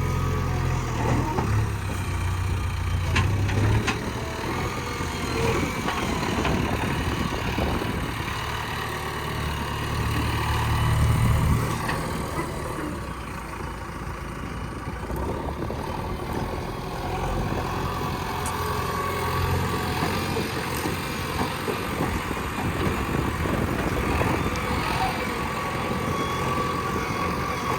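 Backhoe loader's diesel engine running steadily under work, getting louder for a couple of seconds about ten seconds in, then settling back, with a few faint clanks.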